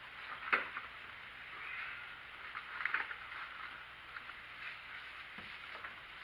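Faint handling noises: a few light clicks and knocks with soft rustling in between.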